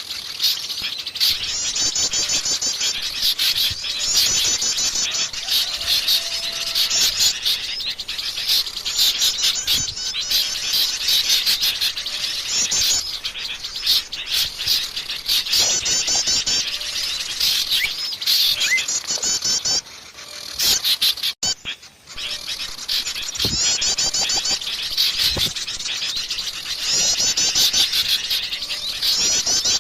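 Dense chorus of many small songbirds chirping and trilling over one another in quick, repeated bursts, as in a mixed bird-lure recording. The calling drops out briefly about two-thirds of the way through, then starts again.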